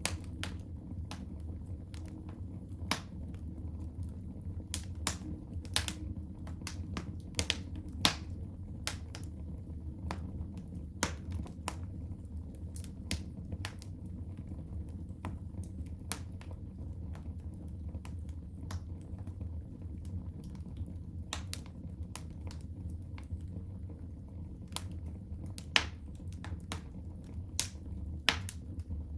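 Wood fire crackling in a fireplace: irregular sharp pops and snaps, a few louder ones, over a steady low rumble of the burning fire.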